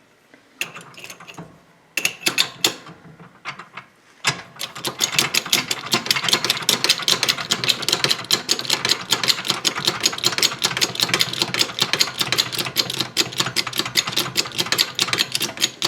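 Impact wrench with a socket hammering away at a fastener: a few short bursts, then a long, steady run of rapid hammering from about four seconds in.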